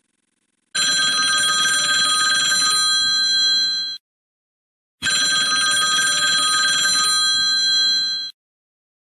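Telephone bell ringing: two identical rings of about three seconds each, a second apart.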